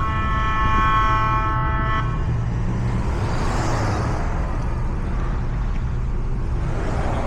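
A car horn held for about two seconds, then cut off, over the steady low rumble of a car engine and exhaust moving at walking pace.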